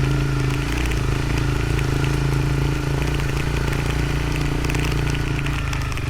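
Motorcycle engine running at a steady speed on a dirt road, with light crackling clicks throughout.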